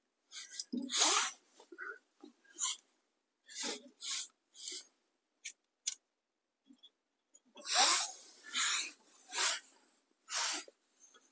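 Short, irregular scratchy bursts, several in quick succession, then a pause of about two seconds before a louder run of them, from an attempt to light a small tent wood stove.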